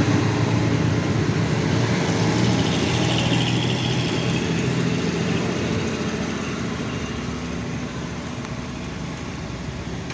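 Heavy truck's diesel engine labouring up a steep grade, loud at first and then fading steadily in the second half as it pulls away, over a constant hiss of rain and tyres on wet road.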